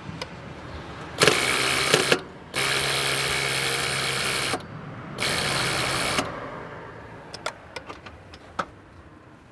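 Car starter motor cranking an engine in three bursts, the longest about two seconds, with clicks between them, then dying away.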